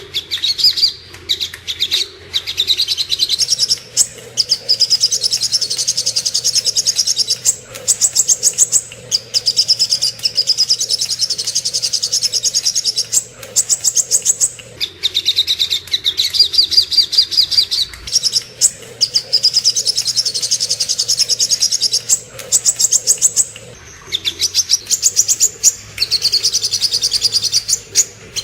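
Sogok ontong songbird singing: fast, high-pitched trilling chirps in phrases of a few seconds, broken by brief pauses.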